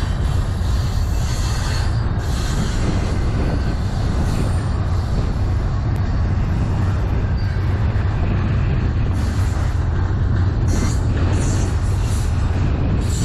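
CN freight train cars rolling steadily past, a constant low rumble with heavy wind buffeting the microphone.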